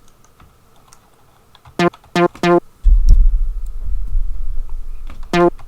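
Amiga Soundtracker samples previewed in the Renoise tracker: three short pitched notes in quick succession, then a loud, deep low rumble that fades away over a couple of seconds, and another short note near the end.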